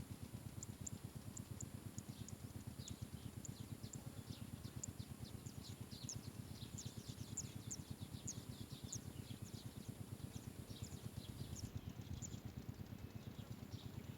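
Asian green bee-eater chicks calling: a stream of short, high-pitched peeps, several a second and irregular, over a steady low rapid rumble.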